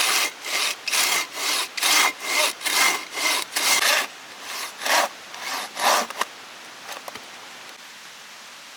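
Hand saw cutting through wood in steady back-and-forth strokes, about two a second, slowing to a few last strokes and stopping about six seconds in, followed by a few light clicks.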